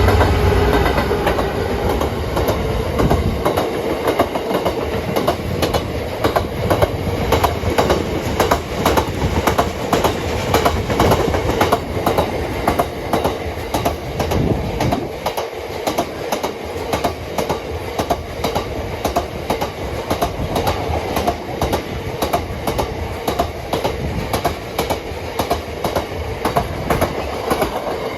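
Diesel-hauled freight train passing close by. A heavy low rumble at the start gives way to a long string of wagons clicking steadily over the rail joints, about three clicks a second.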